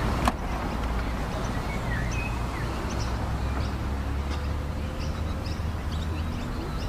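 A vehicle engine idling as a steady low hum, with small birds chirping on and off. There is a single click just after the start.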